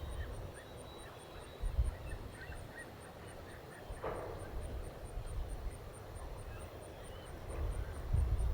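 Faint, short bird calls over intermittent low rumbling that grows louder near the end.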